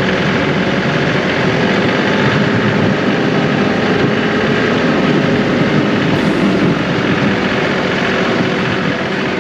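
John Deere 2038R compact tractor's diesel engine running steadily.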